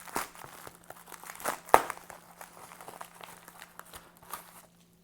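Packaging being unwrapped by hand: irregular crinkling and tearing, with a sharp crackle about two seconds in, stopping shortly before the end. A faint steady electrical hum underneath.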